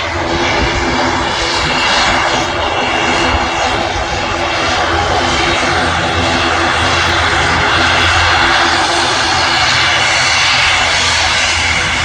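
ATR 72 twin-turboprop airliner running past, a steady engine and propeller drone made of several held tones over a loud rush of noise, swelling slightly about eight seconds in.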